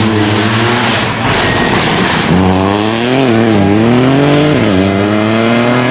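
Rally car engine at high revs, passing under hard acceleration; the pitch climbs and drops sharply several times in the second half as it changes gear.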